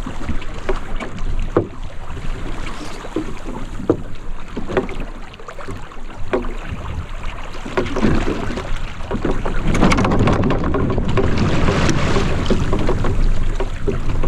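Water rushing and splashing along a sailing canoe's hull in strong wind, with wind buffeting the microphone and scattered short knocks; it grows louder about eight seconds in.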